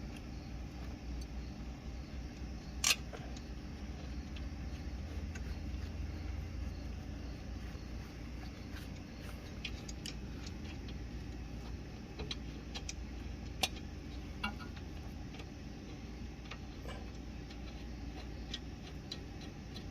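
Scattered metallic clinks and clicks of sockets and hand tools being handled during brake work, with a sharp clink about three seconds in and a couple more around fourteen seconds, over a steady low rumble.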